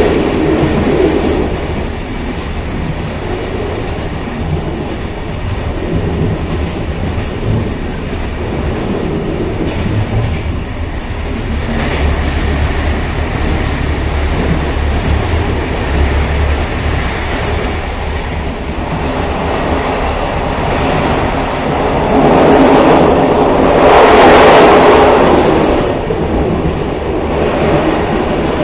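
Railcar running along the track: a steady low rumble of wheels on rails with a noisy hiss over it, swelling louder for a few seconds near the end.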